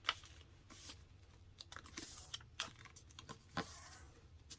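Sheet of printer paper being folded and creased by hand: faint scattered crinkles and soft taps against the table.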